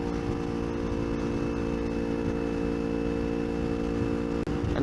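Kawasaki Ninja 250R parallel-twin engine running at a steady pitch while cruising at freeway speed, with wind rumble on the microphone.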